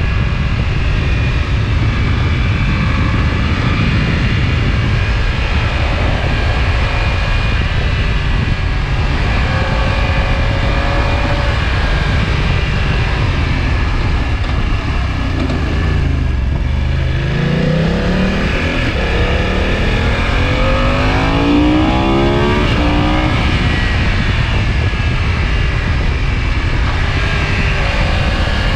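BMW F900XR's parallel-twin engine heard onboard while riding, under a steady rush of wind and road noise. About halfway through, the revs drop and then rise twice in quick succession as the bike accelerates through the gears.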